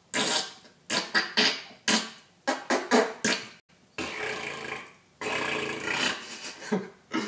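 A string of fart noises: rapid short spurts, with two longer drawn-out ones of about a second each in the middle, then more short spurts near the end.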